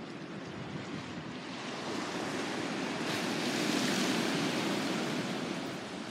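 Sea waves washing onto the shore: a steady rush that swells to a peak about halfway through and then subsides.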